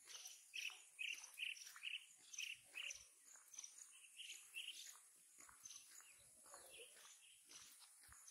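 Faint birdsong: one bird repeats a short chirp about twice a second for several seconds, and other birds give scattered higher calls.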